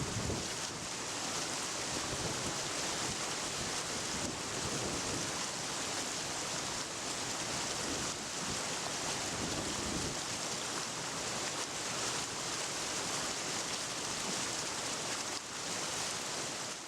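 Steady rushing noise of outdoor nature ambience, even and unbroken, brightest in the high range.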